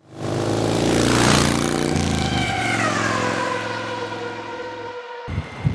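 A vehicle engine passing by at speed, loudest about a second in, its pitch dropping as it goes past; the sound cuts off abruptly near the end.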